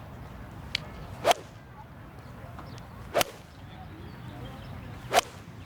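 Three crisp strikes of a Titleist T-Series iron on a golf ball, about two seconds apart, each a sharp short click.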